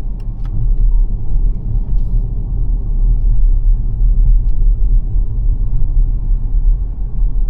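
Steady low rumble of tyre and road noise from the XPENG G9 electric SUV on the move, with no engine note, and a few faint ticks in the first two seconds.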